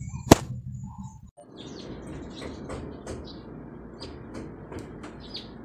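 A single sharp click near the start, then small birds chirping: many short, high chirps repeating over a faint steady hiss.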